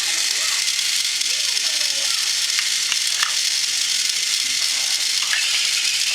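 Battery-powered Thomas & Friends toy train motors running on plastic track: a steady whirring hiss with a few light clicks. Gordon's engine lacks the power to climb the hill.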